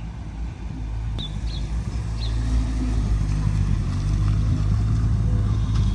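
Car engine running at low revs, a steady low drone that grows gradually louder as a car pulls up close.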